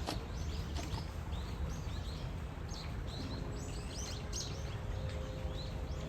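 Many small birds chirping in quick, short calls over a steady low outdoor rumble; faint held tones come in about halfway through.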